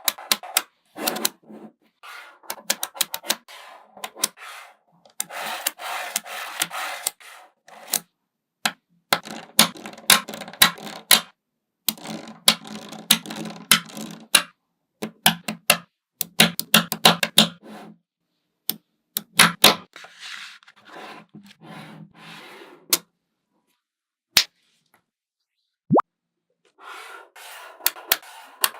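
Small magnetic balls clicking and snapping together in quick, irregular runs of sharp clicks, with rattling as clusters of balls are handled. There is a quieter stretch with only a few single clicks near the end before the clicking resumes.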